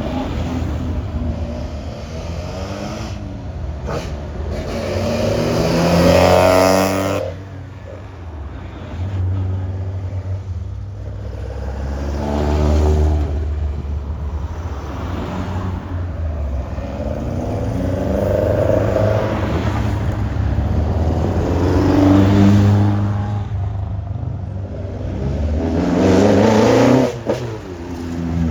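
Showa-era classic cars driving past one after another, each engine revving up as it approaches and fading as it pulls away. About five cars go by.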